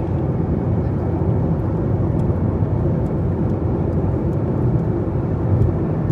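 Steady low rumble of a car driving along, with road and engine noise at an even level.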